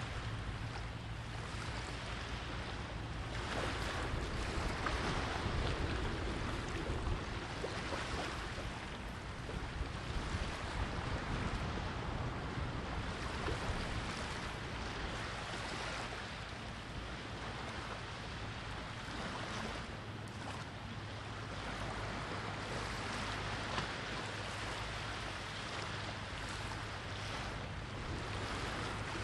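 Sea surf washing in with a steady rush that swells and eases in slow waves, with strong wind on the microphone.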